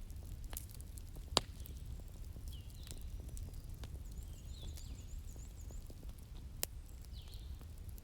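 Wood fire crackling, with scattered pops and two sharper snaps, one about a second and a half in and one near the end, over a low steady rumble. Small birds chirp a few times, with a quick repeated high trill in the middle.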